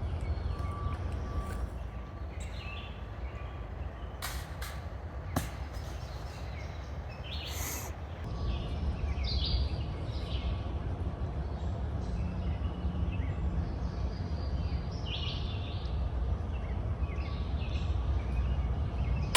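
Outdoor ambience: a steady low rumble with birds chirping on and off, and a single sharp click about five seconds in.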